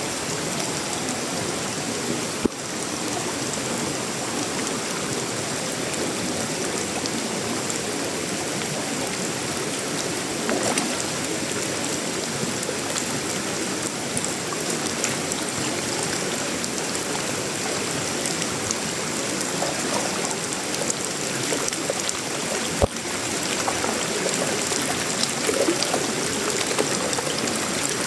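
Steady tropical rain falling on a sheet-metal roof, wood and leaves, a dense even hiss with scattered individual drop ticks. Two sharp single clicks stand out, one a few seconds in and one about three-quarters of the way through.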